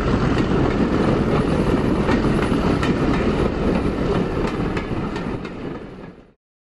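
A train running on track: a steady rumble with the clicks of wheels over rail joints, fading away and cutting off near the end.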